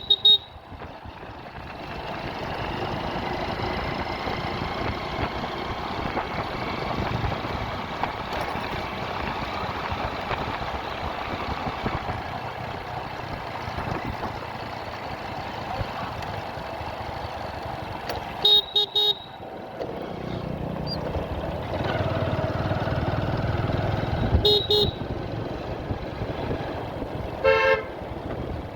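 Motorcycle ride in traffic: steady engine, road and wind noise, with short horn toots about 18 and 24 seconds in, and a different horn near the end.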